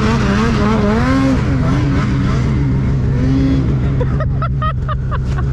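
Snowmobile engine running under throttle while riding deep powder, its pitch rising and falling repeatedly over a steady low drone.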